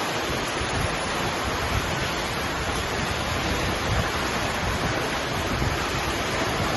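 Strong storm wind, with heavy rain, making a steady rushing noise, with gusts rumbling on the microphone.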